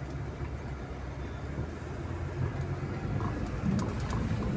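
Vehicle driving on a rural road: steady low engine and tyre rumble, growing slightly louder, with a few faint ticks near the end.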